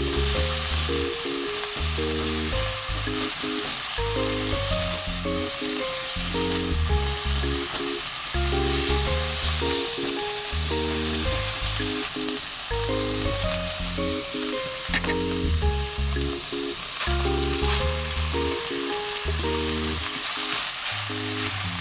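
Food sizzling as it fries in a pan, a steady hiss, over a soft background music melody.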